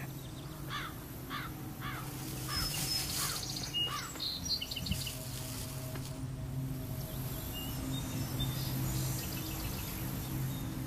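Outdoor grassland ambience: a bird gives a series of short, falling chirps, about two a second, over the first few seconds, followed by a few higher calls, over a low steady hum.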